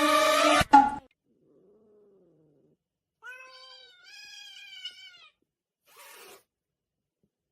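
Music cuts off just under a second in, then a cat meows twice in quick succession, the second meow longer, followed by a short burst of noise.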